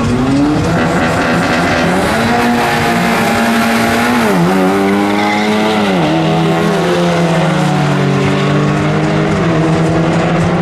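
Turbocharged four-cylinder engines of an Audi S3 and a Volkswagen Golf R at full throttle in a drag-strip launch. The pitch climbs off the line, then drops sharply and climbs again at upshifts about four and six seconds in.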